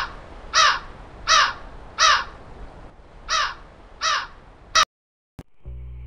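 A bird's short, loud calls repeated about seven times, roughly every two-thirds of a second, the last one cut off abruptly. After a brief silence, music begins near the end.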